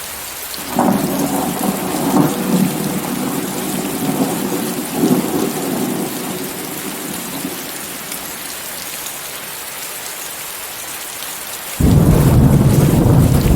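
Steady rain hissing, mixed with white noise. A roll of thunder breaks in about a second in, swells several times and dies away over several seconds; near the end a second, louder thunderclap starts suddenly with a deep rumble.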